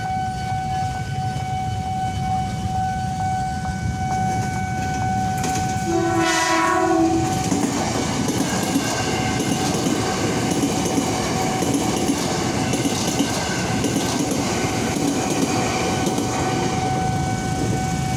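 A level-crossing warning alarm sounds a steady electronic tone throughout. About six seconds in, an electric commuter train gives one horn blast of just over a second, then runs over the crossing with a rumble and wheel clatter.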